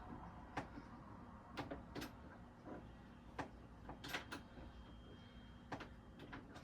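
Faint, irregular light knocks and clicks from handling flat-pack sofa parts during assembly, about nine in all.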